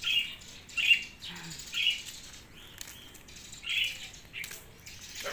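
A bird chirping, short high single chirps repeated about once a second.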